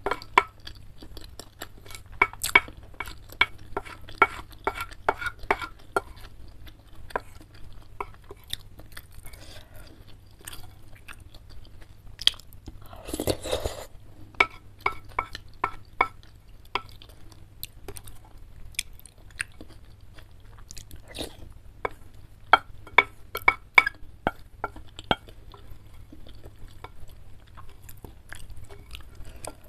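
Close-miked eating sounds: wet chewing and mouth smacks on spicy chicken noodles in runs of about two chews a second, with wooden utensils scraping and tapping the bowl. One longer, louder noisy sound comes about 13 seconds in.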